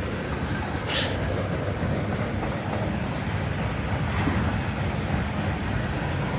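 Freight train cars rolling past: a steady rumble and clatter of wheels on the rails, with two short hissing bursts, about a second in and again around four seconds in.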